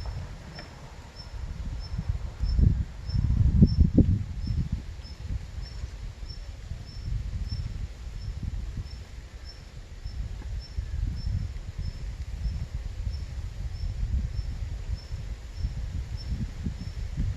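Wind gusting over the microphone as a low, uneven rumble, strongest a few seconds in. Behind it, a faint high chirp repeats evenly about one and a half times a second, from an insect or a bird.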